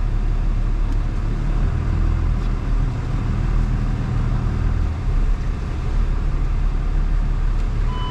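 Pickup truck's engine and road rumble heard from inside the cab while driving, a steady low rumble.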